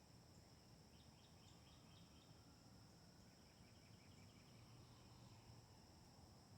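Faint outdoor ambience: a steady, high-pitched insect chorus. A bird gives two short runs of quick repeated notes, about a second in and again about three seconds in, over a low background rumble.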